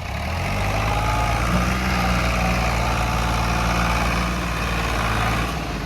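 Tractor diesel engine revving up and held at steady high revs while straining to pull a stuck, overloaded trolley, then easing off near the end.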